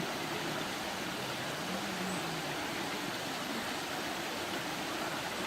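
Steady rush of mountain stream water.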